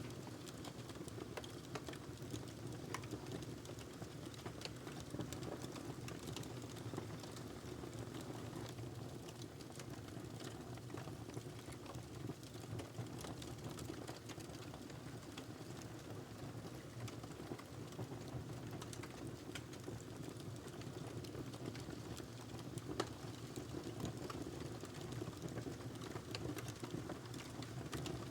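Wood fire in a fireplace crackling, with a steady low hiss and many small irregular snaps and pops, one louder pop near the end.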